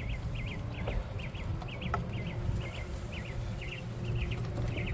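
A bird calling over and over, short wavy chirps about twice a second, over a steady low rumble.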